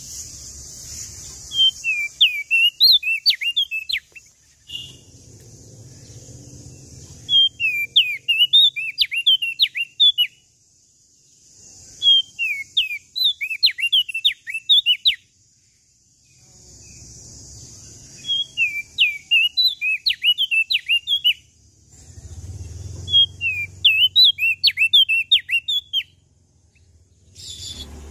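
A prenjak daun songbird singing in repeated bursts of rapid, high, sharply falling chirps, about every five seconds, over a steady high hiss.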